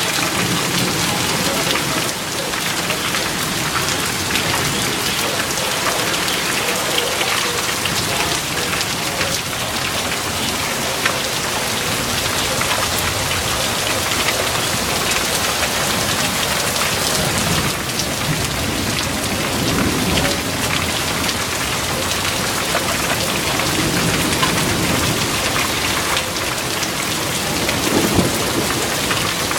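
Heavy rain pouring steadily, with low rolls of thunder rumbling in the second half.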